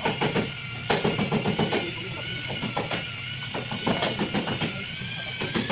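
Nissan Maxima engine running, with a steady high whine and a few scattered clicks and knocks.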